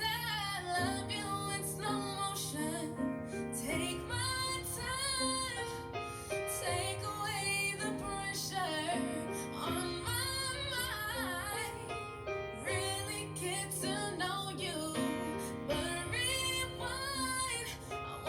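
Dream pop song: a woman singing over a steady bass line and instrumental backing.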